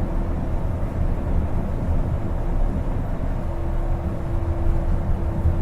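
Interior running noise of a Kobe New Transit 2020-series Port Liner rubber-tyred automated people mover cruising between stations: a steady low rumble, with a steady humming tone coming in about three and a half seconds in.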